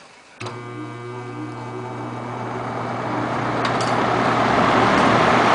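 Vintage Sears box fan switched on: its motor hum starts suddenly about half a second in, then the rush of air grows steadily louder as the blades spin up.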